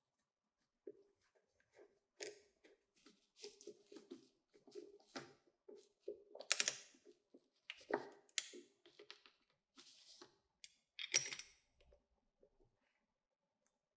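Scattered light clicks and knocks of small parts being handled, with three sharper knocks standing out, the last of them near the end.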